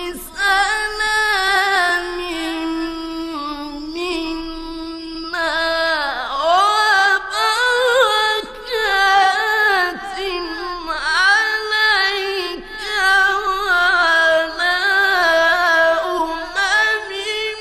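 A male Quran reciter's voice in mujawwad tajweed, drawing out a long melodic phrase with held notes and ornamented turns that climb and fall in pitch.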